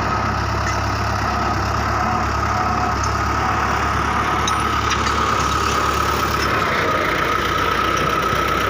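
Belarus 510 tractor's diesel engine running steadily, a low rumble with a steady high whine over it.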